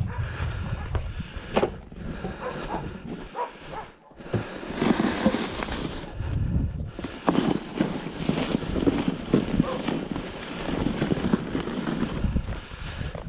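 A snow shovel scraping and crunching through snow in repeated irregular strokes, with a short lull about four seconds in.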